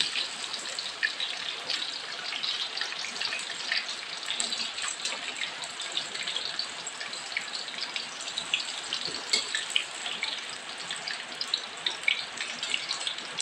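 Tofu cubes frying in hot oil in a wok: a steady sizzle with frequent crackles and pops, and a metal spatula scraping the pan as the pieces are stirred.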